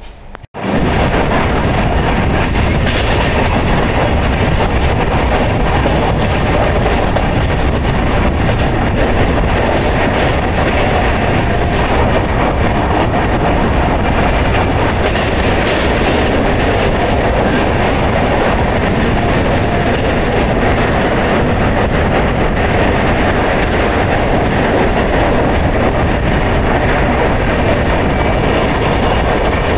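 Indian Railways express passenger train running on the track: a loud, steady rumble of the coaches' wheels on the rails that starts abruptly about half a second in.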